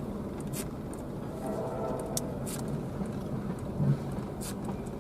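Diesel freight locomotive running while switching tank cars: a steady low engine rumble with a few short clicks.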